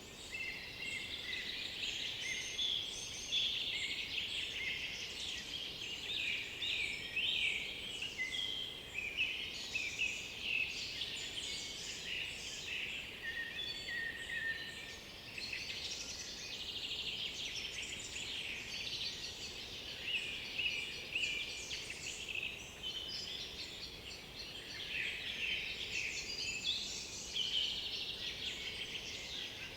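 Chorus of several songbirds singing at once, a dense mix of short chirps, whistles and trills that never stops, over a faint steady hiss.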